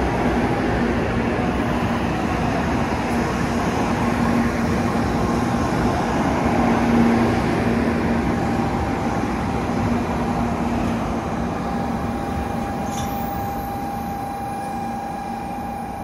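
N700 series 7000-number Shinkansen train rolling past the platform as it pulls in, a steady rumble of wheels and running gear that swells about seven seconds in and then gradually fades as the train slows. A steady tone runs under the rumble, low in the first half and higher in the second.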